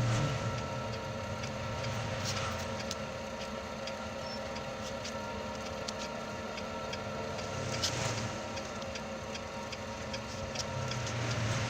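A steady machine hum with scattered ticks, and a few swells of rushing noise near the start, about eight seconds in and near the end.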